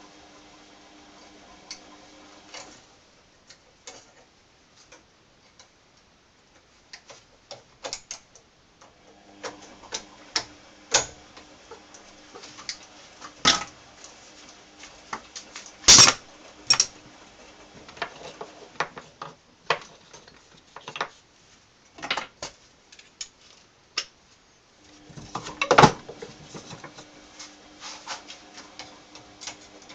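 Hand tools and small metal parts clicking and clinking as they are handled, with scattered louder knocks, two of them standing out about halfway through and near the end. A faint steady hum comes and goes underneath.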